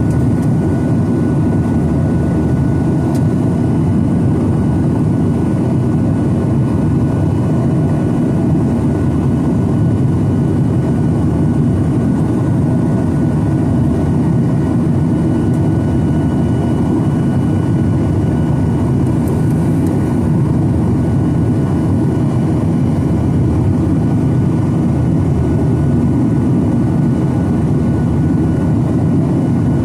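Steady cabin noise of a Boeing 737-900ER in flight: a loud, even low rumble from its CFM56 engines and the airflow, with a faint steady whine above it.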